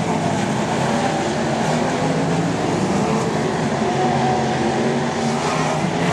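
A pack of sprint cars' V8 engines running together around the track, a steady, dense engine noise whose pitches waver slightly as the cars pass.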